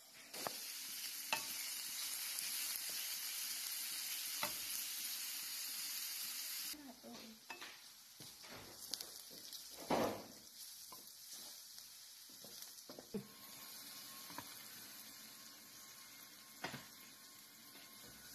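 Chopped aromatics sizzling in hot oil in a frying pan, loud at first and then dropping suddenly to a quieter sizzle about seven seconds in. A wooden spatula scrapes and knocks against the pan throughout, with the sharpest knock about ten seconds in.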